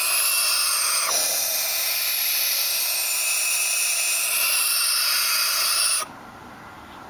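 Barn owl chicks hissing steadily, a loud continuous hiss that cuts off suddenly about six seconds in.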